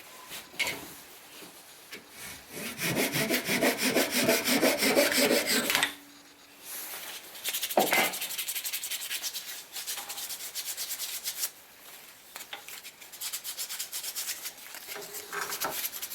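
Sandpaper rubbing back and forth on a wooden handle in quick, even strokes. It comes in three bouts; the first is the loudest.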